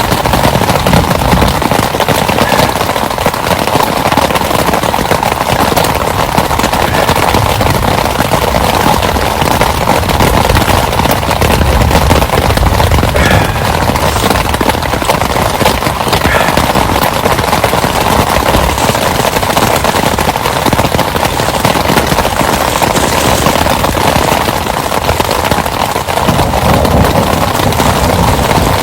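Heavy rain falling hard, a loud, steady, dense clatter of drops striking close by.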